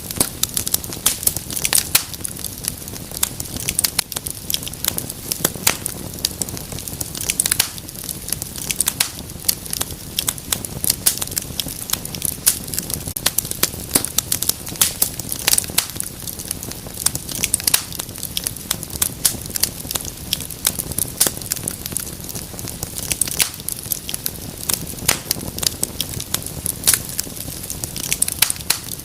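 Wood fire in a fireplace crackling: a continuous run of sharp pops and snaps, several a second, over a soft steady hiss.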